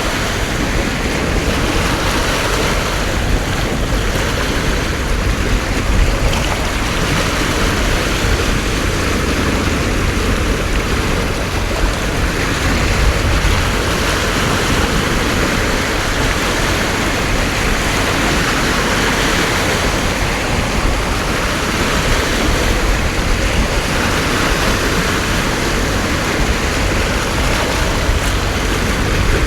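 Heavy rain pouring down in a steady, dense hiss, with a low wind rumble on the microphone.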